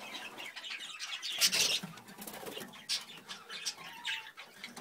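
Budgerigars chirping and chattering in many short high calls, with a louder burst of wing flapping about a second and a half in.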